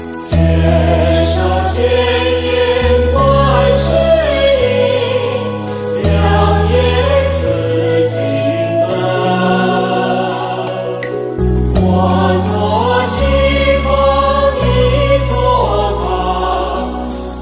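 Buddhist devotional song in praise of Guanyin: a sung melody with a choir-like backing over sustained bass chords that change every second or two, with regular light percussive ticks.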